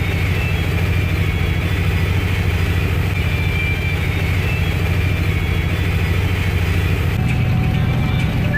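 Steady low rumble of a car driving, with a faint thin whistle above it. The sound changes abruptly about seven seconds in.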